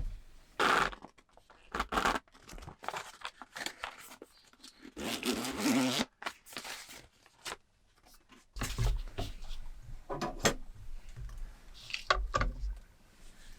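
A series of short, irregular scraping and rustling handling noises in a small enclosed space, with a longer rustle about five seconds in and a few dull low bumps in the second half.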